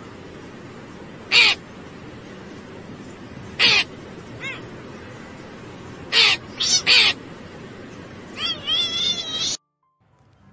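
A crow cawing: single short calls a couple of seconds apart, then three in quick succession about six seconds in, and a faster, wavering run of calls near the end that cuts off suddenly. Steady background noise runs under the calls.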